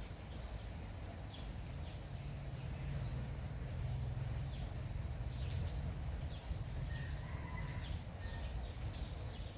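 Small birds chirping over and over in short, falling calls, with a longer held note from another bird about seven seconds in. Under it runs light rain and a steady low rumble that grows a little stronger in the middle.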